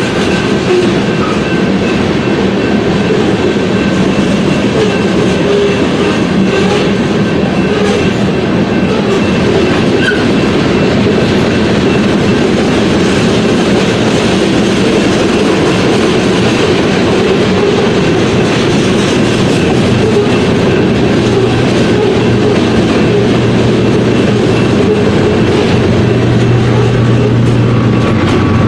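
Freight train rolling past, its cars' wheels clattering steadily over the rails, with faint high ringing tones above. A low steady hum comes in about twenty seconds in.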